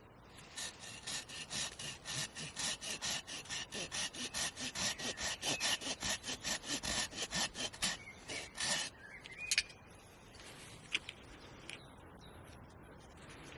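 Hand saw cutting through wood in quick, even strokes, about four a second, stopping about nine seconds in. A sharp click follows, then a fainter one.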